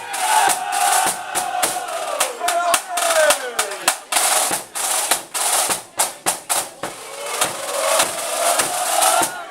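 Marching-band snare drums rattling and striking in quick, uneven bursts, with people shouting and whooping over them.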